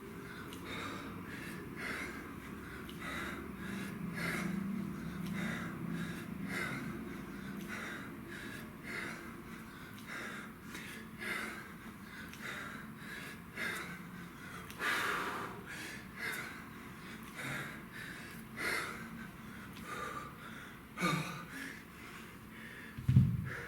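Hard rhythmic breathing of a person working through kettlebell reps: a sharp puff of breath about one and a half times a second. A loud low thud comes near the end.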